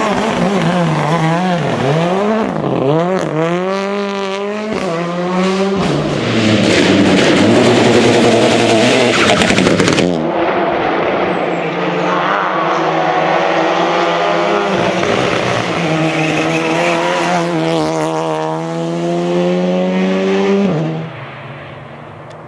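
Rally car engines driven flat out, revving hard. For the first few seconds the pitch swoops up and down through quick lifts and gear changes. About ten seconds in it changes abruptly to a car accelerating, its engine climbing steadily in pitch through the gears. Near the end the sound drops suddenly to a quieter, more distant noise.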